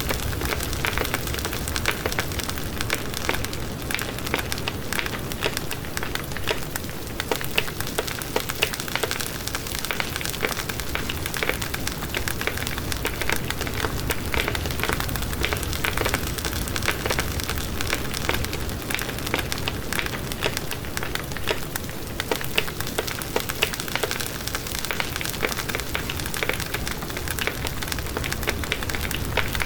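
Wood fire burning steadily in a fireplace, with dense, continuous crackling and snapping over a low rumble of the flames.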